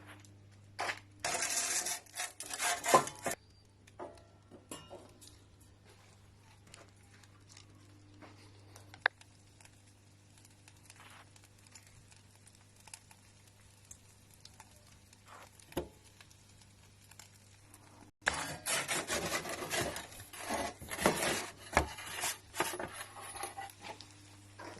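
Scraping and clattering, like metal utensils or tools being handled, in two spells: one near the start and a longer one about three-quarters of the way through, with only scattered clicks and a steady low hum between.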